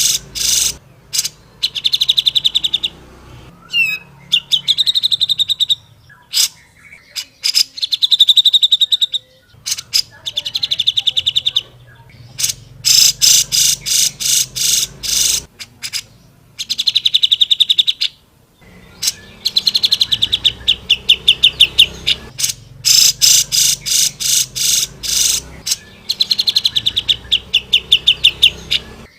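Cucak jenggot (grey-cheeked bulbul) singing loudly: repeated phrases of rapid, sharp chattering notes, about eight a second, running into fast trills, with short pauses between phrases.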